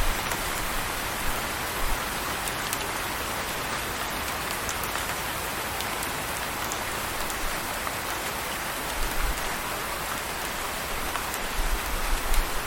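Steady rain falling in a dense, even hiss, with scattered sharp drop ticks. A low rumble swells briefly twice, once past the middle and once near the end.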